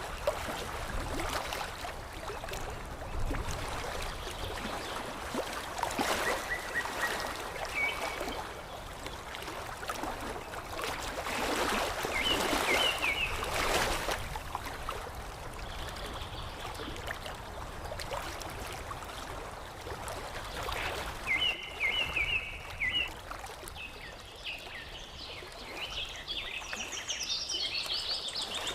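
Water lapping and flowing in a steady wash that swells now and then, with small birds chirping in short phrases every few seconds, including a run of higher chirps near the end.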